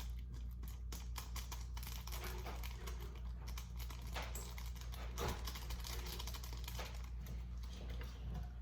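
Quick, irregular clicks and taps of a small plastic spoon stirring and scraping in a plastic tray, mixing powder and water into a sauce for a DIY candy kit.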